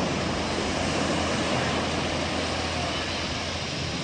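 Steady rush of sea surf on a beach, with a continuous low rumble under it.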